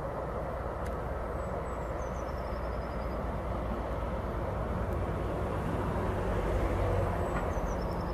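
ICE high-speed train approaching along the line: a low, steady rumble that slowly grows louder.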